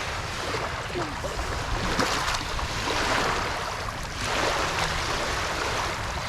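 Small waves washing onto a sandy shore, swelling twice, with a low rumble of wind on the microphone.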